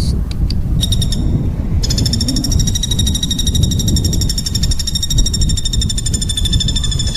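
A small songbird's rapid, buzzy trill: a couple of short high notes, then a steady pulsing trill held from about two seconds in, over a steady low rumble.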